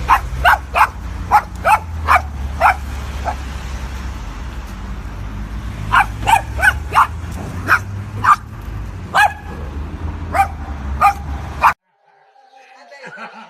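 A dog barking in rapid short barks: a run of about eight, a pause of a few seconds, then about ten more, over a low steady rumble. The barking cuts off abruptly near the end.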